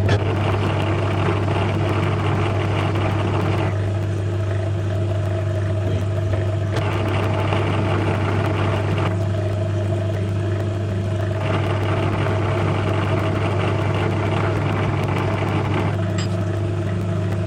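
Small metal lathe running, its motor giving a strong steady hum while the tool turns a miniature steel pin. A higher cutting hiss comes and goes in several stretches as the tool takes its passes.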